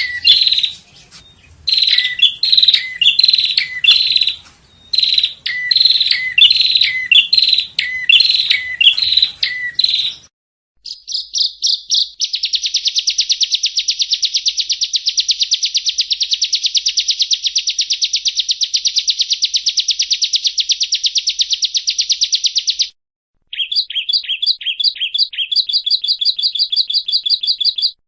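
Yellow-bellied prinia (prenjak rawa) singing. For about ten seconds it repeats short chirping phrases. After a brief silence comes a long, fast, even trill of about eleven seconds, then a short break and more rapid trilling.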